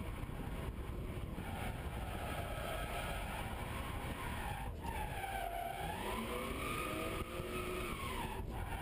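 BMW E36 M3 engine at high revs while drifting, heard from inside the cabin, with the rear tyres skidding. About halfway through the revs dip and then climb again, and two brief clicks sound a few seconds apart.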